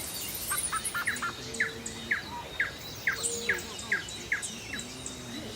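A bird calling: a series of about a dozen short, sharp chirps, roughly two a second, stopping near the end, over a steady faint high background tone.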